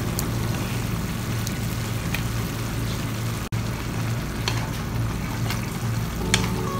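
Chopped chicken and chicken livers sizzling in a wok, over a steady low hum, with a few light clicks. Near the end a wooden spatula begins stirring the pan.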